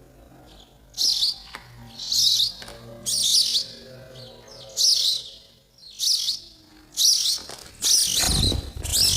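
Baby sparrows chirping in repeated bouts about once a second, the begging calls of nestlings waiting to be fed. A low rumble comes in near the end.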